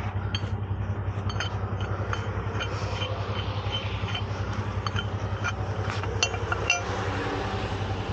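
Truck engine idling steadily with an even pulse, under scattered sharp metallic clinks of chain and rigging hardware being handled, the two loudest clinks near the end.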